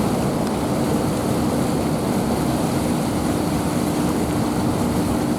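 Steady rush of fast-running water pouring over a waterfall, loud and even, with a faint steady low hum beneath it.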